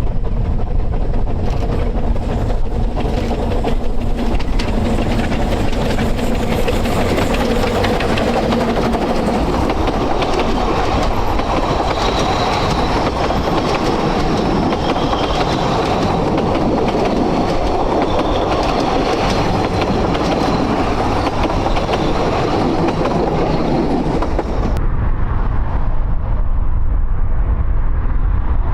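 Narrow-gauge train running, with a steady rumble and wheels clicking over the rail joints. The high hiss above the rumble cuts off suddenly near the end.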